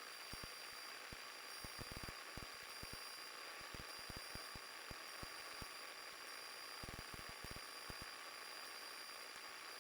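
Faint static hiss of a cockpit headset and intercom audio feed, with a steady thin high tone and scattered faint clicks.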